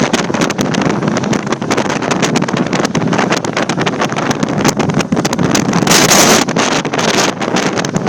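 Helicopter hovering close by, its rotor noise mixed with heavy wind buffeting the microphone.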